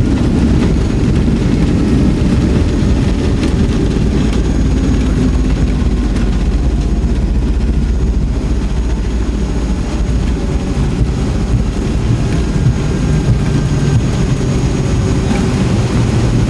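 Steady low rumble of a Boeing 757-200 airliner heard from inside the cabin as it rolls along the ground after landing. The rumble comes from the engines and the wheels.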